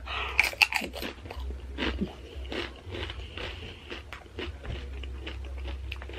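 Close-miked chewing of crunchy tortilla chips from a loaded nacho salad: rapid crisp crunches in the first half, then softer, sparser chewing.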